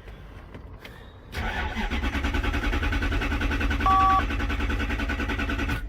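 Starter cranking the 1993 Lexus SC400's 4.0-litre V8 for about four seconds, beginning about a second and a half in and stopping abruptly, without the engine firing: a crank-no-start, with the fuel pump control module getting no command from the engine computer. A short two-tone beep sounds partway through the cranking.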